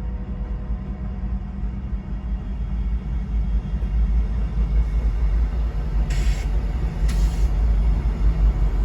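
Approaching freight train led by diesel locomotives (GE Dash 9s and an EMD SD75M): a heavy low rumble that grows steadily louder, with two short hisses about six and seven seconds in.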